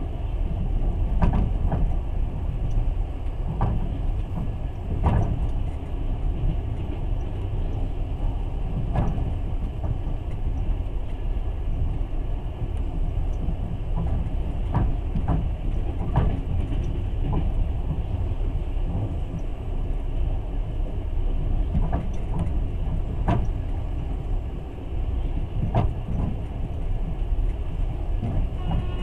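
Inside a moving passenger train carriage: a steady low rumble of wheels on the rails, broken by sharp knocks and rattles at irregular moments.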